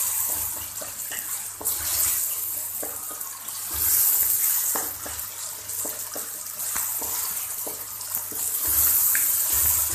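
Chopped onions and tomatoes sizzling in hot oil in a metal pan, with a wooden spatula scraping and clicking against the pan as they are stirred. The sizzle swells and eases as the mixture is turned.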